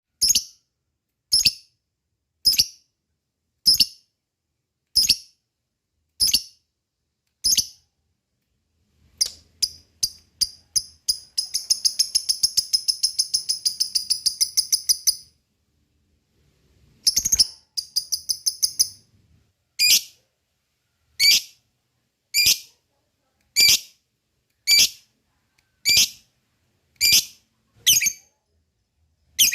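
Lovebird calling: sharp, high single chirps about one every second and a bit. Partway through they speed up into a long, rapid chattering trill of about four seconds, the ngekek song prized in fighter lovebirds, and then fall back to single chirps.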